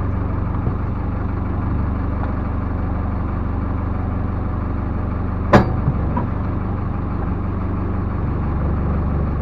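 Backhoe loader's diesel engine running steadily, with a single sharp knock about five and a half seconds in.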